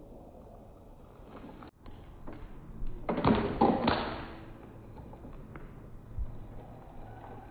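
A cluster of sharp knocks and taps, loudest about three to four seconds in, with a few fainter knocks before and after.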